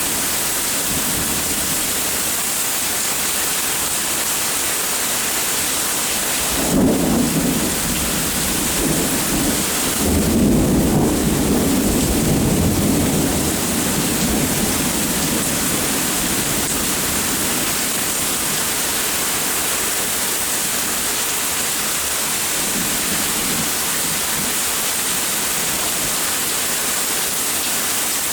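Steady rain with rolling thunder: a rumble of thunder about seven seconds in and a longer one starting about ten seconds in that dies away over a few seconds.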